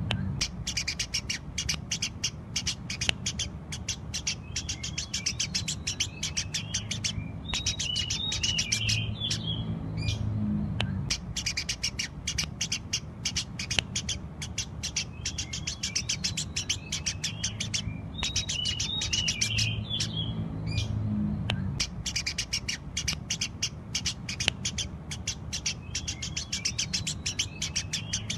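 Eurasian tree sparrow chirping busily: long runs of rapid, sharp chirps broken by short pauses every few seconds, over a low steady hum.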